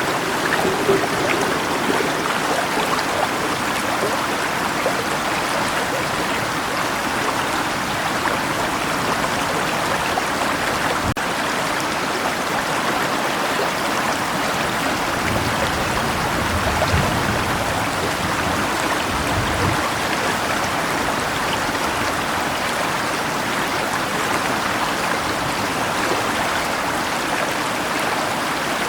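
Steady rushing of river water, with a faint low rumble about halfway through.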